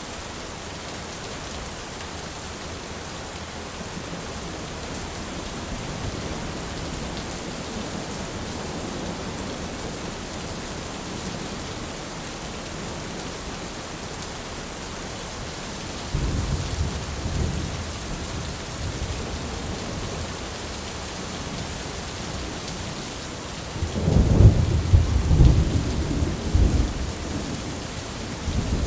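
Thunderstorm: steady rain falling, with thunder rumbling. A deep rumble breaks out suddenly a little past halfway, and a louder, longer peal comes near the end.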